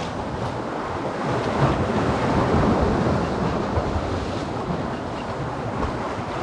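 Sea waves washing, with wind buffeting the microphone; the noise swells for a couple of seconds about a second and a half in.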